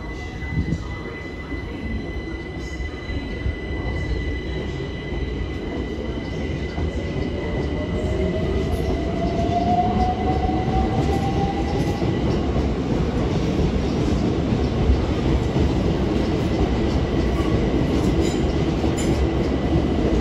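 Electric multiple-unit train running on the station approach tracks, its rumble and rail noise growing louder. A whine rises in pitch partway through.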